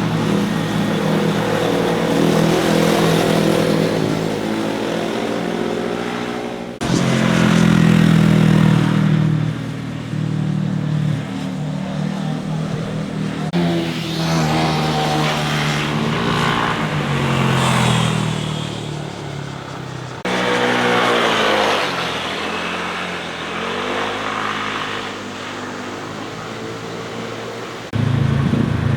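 Motorcycles passing one after another, engines revving up and down through the gears with the pitch rising and falling. The sound changes abruptly about every seven seconds where separate passes are spliced together.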